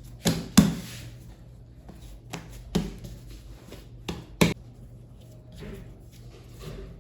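Three pairs of sharp knocks on a kitchen work surface, each pair a fraction of a second apart and about two seconds between pairs, from handling dough or a tool on the counter. Softer handling sounds follow near the end.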